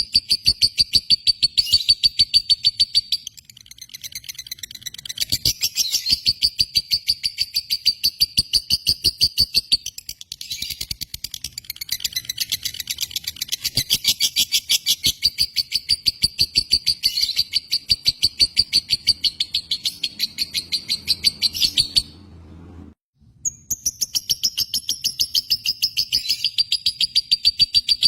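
Lovebird chattering in a long, rapid string of shrill repeated chirps, several a second, broken by a few short pauses.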